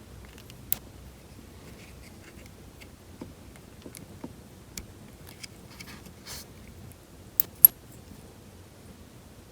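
Small sharp clicks and taps of a plastic wiring connector and its metal terminal pins being handled and pushed home, scattered through, with two louder clicks close together about three-quarters of the way in.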